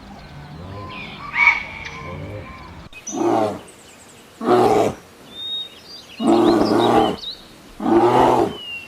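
Lion roaring in four long, loud calls starting about three seconds in, with birds chirping faintly in the background. Before that comes a quieter recording with a single bird call.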